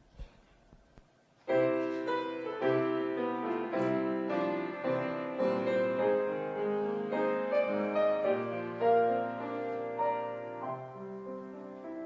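Piano playing an instrumental introduction of chords and sustained notes, coming in about a second and a half in after a brief quiet.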